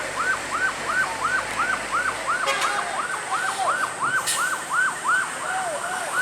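Electronic emergency-vehicle siren in a fast yelp: quick rising-and-falling whoops, about three a second, repeating without a break. A couple of sharp knocks are heard over it, about two and a half and four seconds in.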